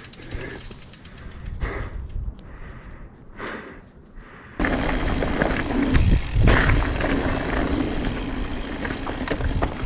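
Mountain bike descending a rough trail: tyres rolling and knocking over rock and roots, with rushing noise on the helmet-mounted microphone. The noise jumps sharply louder about halfway through and stays loud.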